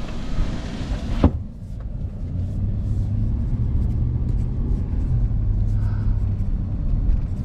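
Truck driving, heard from inside the cab: steady low engine and road rumble. A hissing wind noise drops away after a sharp click about a second in.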